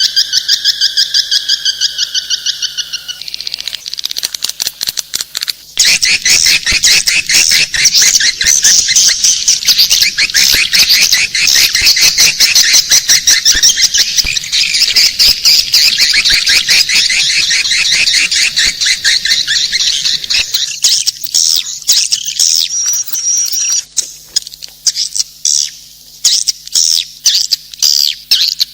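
Swiftlets twittering: fast, dense trains of high chirps that run on almost without a break, then break up into separate short bursts over the last few seconds.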